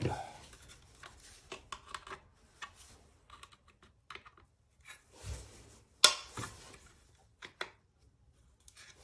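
Scattered small clicks and taps of plastic and metal car door lock parts being handled as the lock's cable is worked back into the door, with a sharper click about six seconds in.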